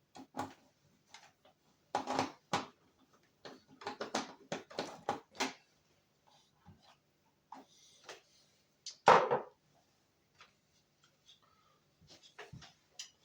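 Irregular clicks, taps and clatters of hand work on a truck's instrument cluster parts, with a louder knock about nine seconds in.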